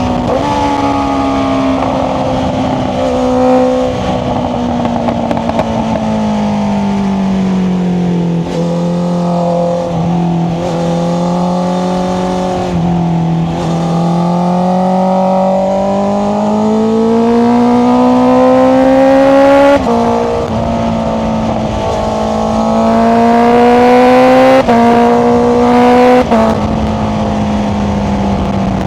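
Honda CBR650R inline-four engine running through an Akrapovic exhaust under way. The revs ease off and hold low for a while, then climb steadily. Near the end the pitch drops sharply three times, as with quick upshifts.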